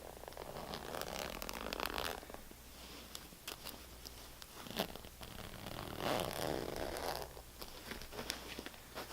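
Scratching on a hard surface in two longer rasping passages, one near the start and one past the middle, with scattered light taps between them and a sharper tap just before the second passage.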